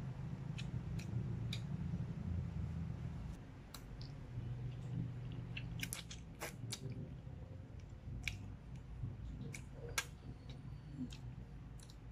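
Close-up chewing of a mouthful of creamy fettuccine pasta, with scattered sharp clicks of a metal fork against the plate as more noodles are twirled.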